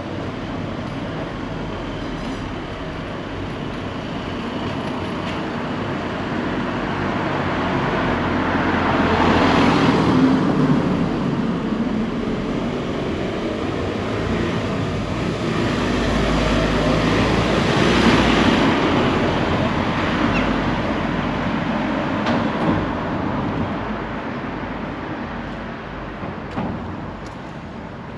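Two motor vehicles passing by on a street, one after the other, each swelling and fading: the first about ten seconds in, the second, with a deeper rumble, near eighteen seconds.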